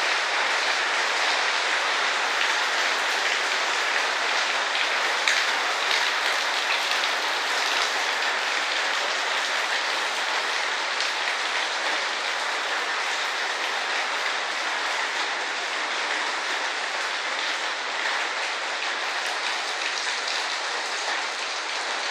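Heavy rain pouring steadily, a dense hiss with faint scattered drop ticks, a little softer toward the end.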